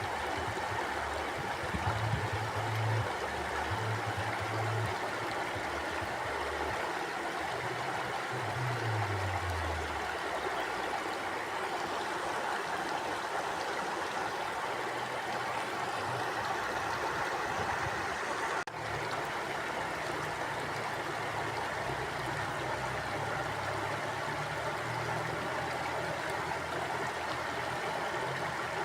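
Mountain stream flowing steadily, an even rush of water with a low rumble coming and going underneath. There is a brief drop in level about two-thirds through.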